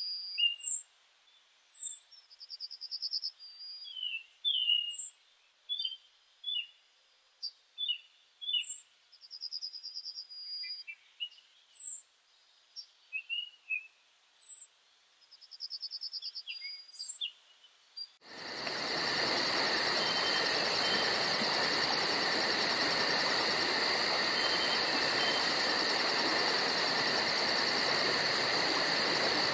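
Several songbirds calling: short sharp high notes repeating about once a second and a half, buzzy trills and scattered chirps, with silence between them. About two-thirds through, the sound switches suddenly to a steady insect chorus with a dense hiss and continuous high trilling.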